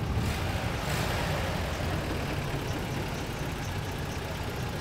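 Car engine running with a steady low rumble, and a brief rush of noise just under a second in.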